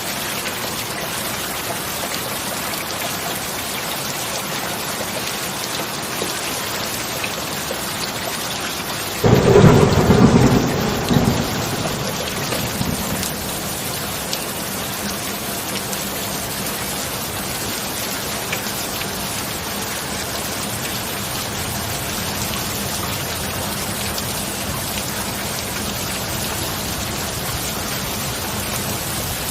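Steady heavy rain, with one sudden crack of thunder about nine seconds in that rumbles on for a few seconds and fades.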